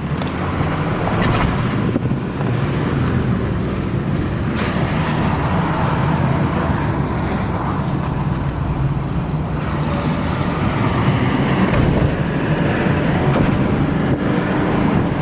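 2006 GMC 3500 dually's 6.6L Duramax turbo diesel pulling the truck along, a steady engine drone mixed with road noise that swells slightly partway through.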